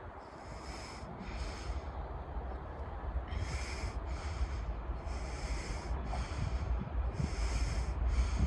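Wind rumbling on the microphone, with short high hissing swishes about once a second, often in pairs.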